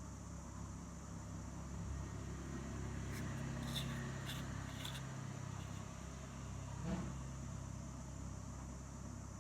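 Steady low hum with a few faint clicks in the middle and a single knock about seven seconds in.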